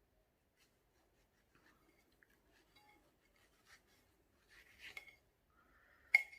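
A knife cutting through a ripe mango: faint scraping and small ticks, a brief rustle of handling about five seconds in, then one sharp clink near the end.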